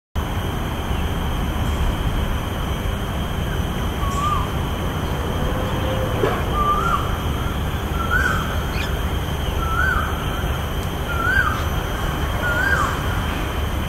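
A bird calling: a short up-and-down note repeated about seven times, roughly every second and a half, starting about four seconds in and creeping slightly higher in pitch, over a steady low background rumble.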